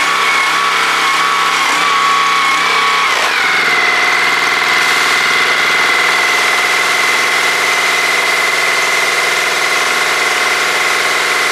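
Maruyama MS313EW power sprayer's 4.3 hp gasoline engine running steadily with a whine; about three seconds in its pitch drops a little and then holds at the lower speed.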